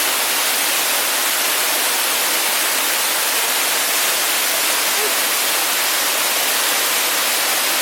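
Waterfall rushing steadily: an even hiss of falling water with no break.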